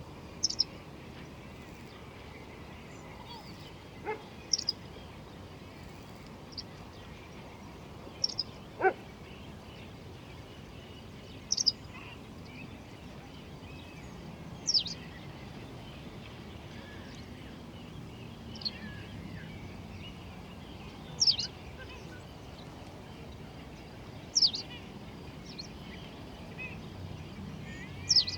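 A bird repeating a short, high, downward-sliding chirp every three seconds or so over a steady background hiss. About nine seconds in, one longer call slides much further down in pitch.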